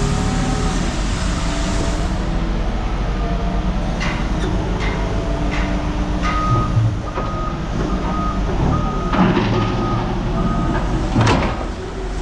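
A vehicle's engine running while its reversing alarm beeps steadily, one short beep about every three-quarters of a second through the second half. A few sharp knocks sound alongside.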